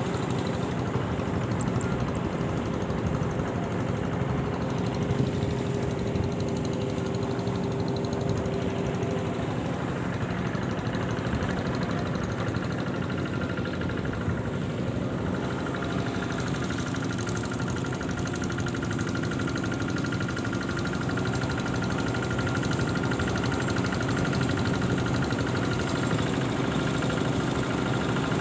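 An engine running steadily at an even speed, with a constant hum and a faint held whine.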